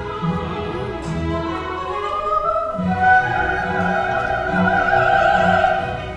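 Coloratura soprano singing a wordless vocalise with orchestral accompaniment. The voice glides upward and then, about halfway through, holds a long high note with vibrato.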